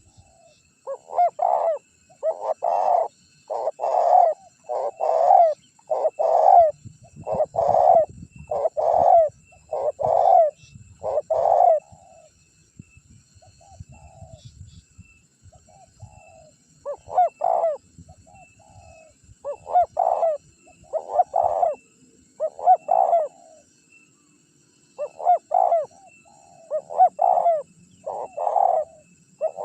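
Spotted dove cooing: a run of short, low coos about one a second, breaking off for a few seconds twice before starting again.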